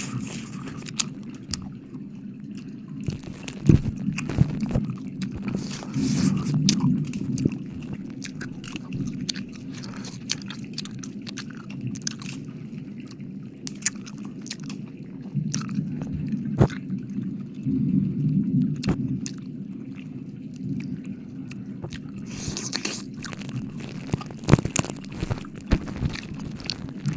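Close-miked ASMR wet mouth sounds: licking with irregular sticky clicks and crackles, some sharp, over a low rumble that swells now and then.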